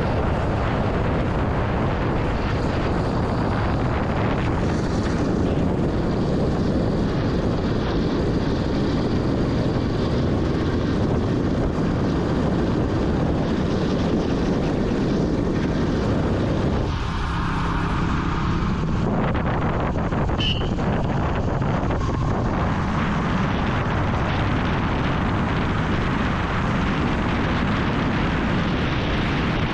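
Vintage Yamaha motorcycle running on the move, its engine and the wind rushing over the microphone blending into a steady noise, with a brief clearer engine note about two-thirds of the way through.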